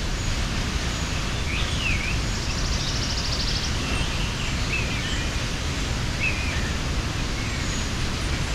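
Waterfall in the mountains: a steady rush of falling water, with small birds chirping and whistling over it several times and a short buzzy trill a few seconds in.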